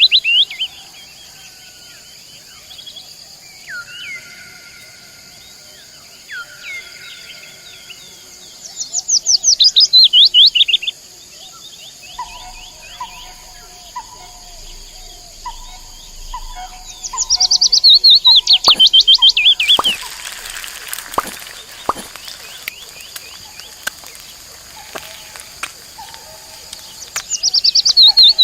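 Songbirds singing: a loud, fast run of high chirps comes three times, roughly every nine seconds, with softer whistled notes and repeated short calls between. A few light clicks sound about two-thirds of the way through.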